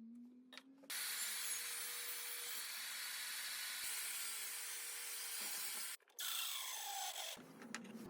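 A power tool working wood: its motor winds up, then runs with a dense, hissing cut-or-grind noise for about five seconds. It breaks off briefly, runs again, and winds down with a falling whine near the end.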